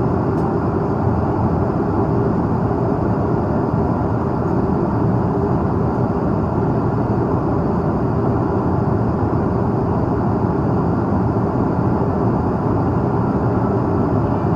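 Steady cabin noise inside an Airbus A330-300 airliner in flight: a constant low rush of airflow and engines with no change.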